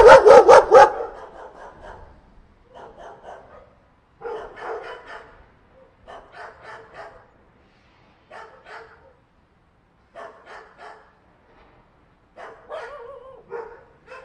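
A dog barking: a loud burst of about four quick barks at the start, then quieter runs of barks every second or two.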